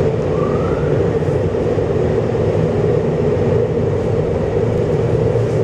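Automatic car wash machinery running, heard from inside the car: a steady loud rush with a low rumble underneath.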